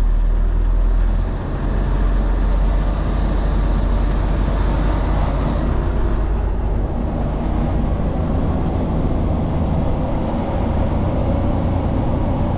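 Peterbilt rotator wrecker's diesel engine pulling steadily at low speed with the drive-axle lock engaged, a continuous low rumble. A faint high whine rises slowly in pitch over it.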